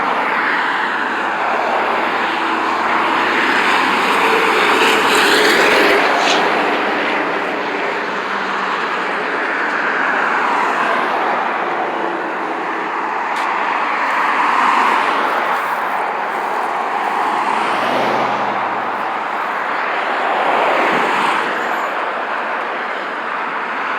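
Highway traffic going by: a steady tyre and engine noise that swells and fades every few seconds as cars and trucks pass one after another.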